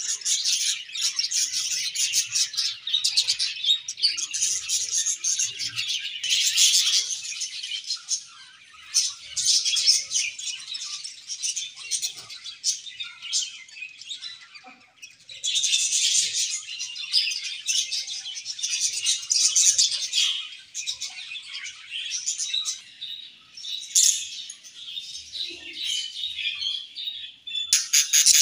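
A flock of budgerigars chattering and chirping together in a continuous, busy warble, with brief lulls. Near the end it switches abruptly to a fast, evenly pulsing trill.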